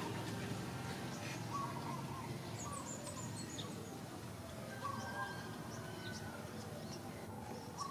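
Small birds chirping now and then in short calls, over low, steady background noise.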